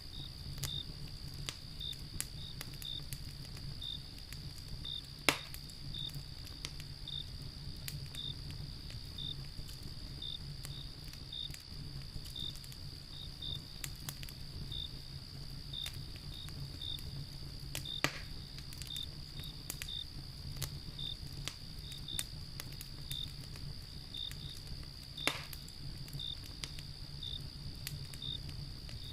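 Wood fire crackling with scattered small clicks and three sharp, louder pops, over crickets chirping about twice a second and a steady high insect trill.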